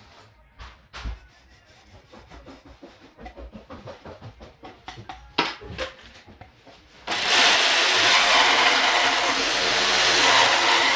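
Light, irregular taps and knocks on wood. About seven seconds in, a power tool switches on abruptly and runs loudly and steadily.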